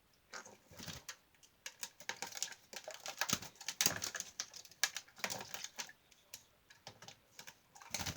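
A white-bellied caique bathing in a shallow container of water, splashing and flicking water with rapid small splashes and patters, busiest through the middle and thinning near the end.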